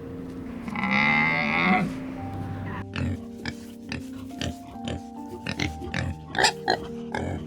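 A farm animal's long call about a second in, then background music with many short, sharp animal sounds over it.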